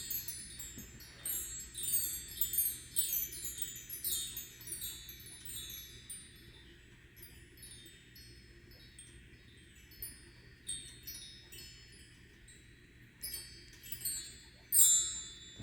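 High, tinkling wind-chime notes in quick cascades, dense at first, sparser in the middle, and thicker again near the end.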